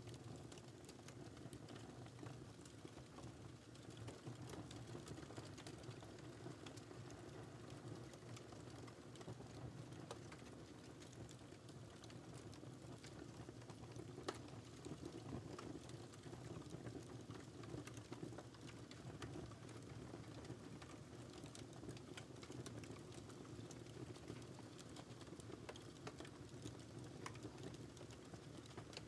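Faint wood fire crackling: irregular small pops and snaps over a steady low rumble of the flames, with one sharper pop about halfway through.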